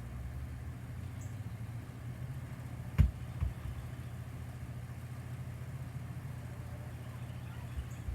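Steady low hum of a car engine idling, with one sharp knock about three seconds in and a softer knock just after.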